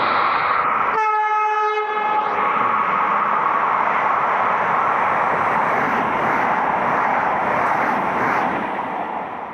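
Regional passenger train running past at speed with steady rushing wheel and rail noise, sounding one horn blast of a little over a second about a second in.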